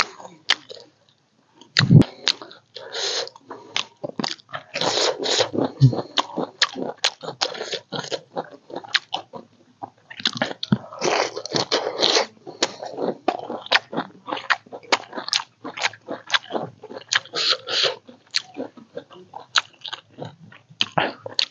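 A person eating: chewing and biting food with wet mouth clicks and smacks in quick, irregular runs. There is a brief pause about a second in and a single low thump about two seconds in.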